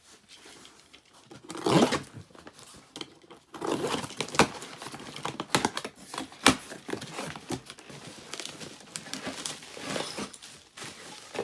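Packaging crinkling and rustling as engine-kit parts are handled, with a few sharp clicks and knocks.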